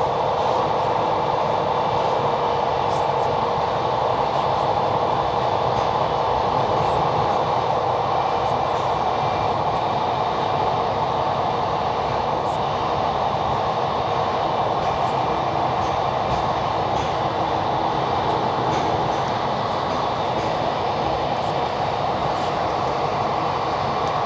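Passenger train running steadily along the track: an even, unchanging noise of wheels on rails.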